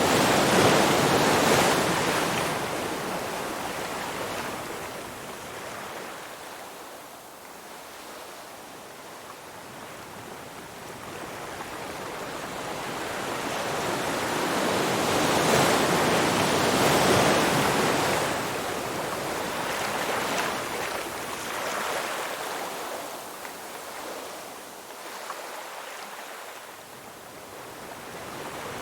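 Ocean surf: waves washing in and drawing back in slow swells. A big one comes near the start and another about halfway through, with quieter lulls between.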